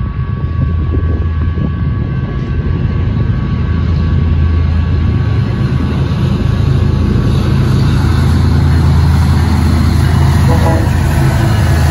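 A crossing's GS Type 1 electronic bell rings steadily while the diesel locomotives of an approaching BNSF intermodal freight train rumble louder. The train noise builds until it drowns out the bell, and the lead locomotive reaches the crossing near the end.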